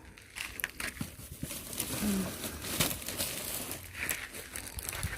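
Plastic rubbish bag rustling and crinkling as it is handled, an irregular run of crackles.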